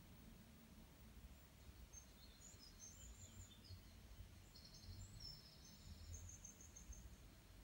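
Near silence: faint low hum with a few faint, high bird chirps between about two seconds in and near the end.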